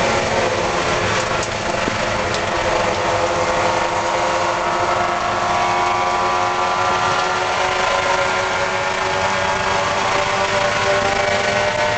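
Spec Miata race car engine heard from inside the cabin, running steadily under wind and road noise, its pitch climbing slowly through the second half.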